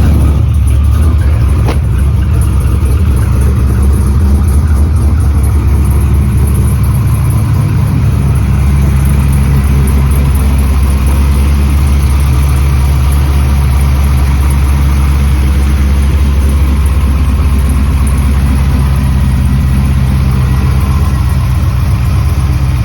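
A 6.0-litre LS V8 truck engine idling steadily and loudly.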